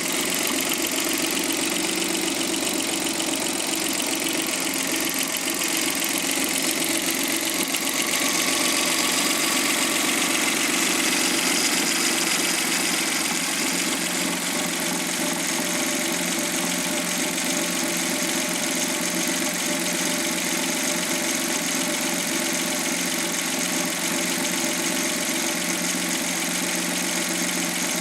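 Suzuki K6A three-cylinder engine from a JB23W Jimny running steadily at idle, growing a little louder for a few seconds in the middle.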